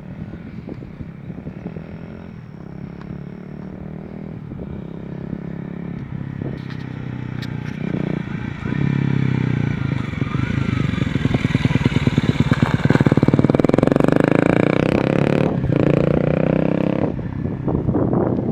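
Honda Rebel 250's single-cylinder engine running through an aftermarket slip-on muffler. It is fairly low at first, gets much louder from about eight seconds in and stays loud with the revs changing, then eases off near the end.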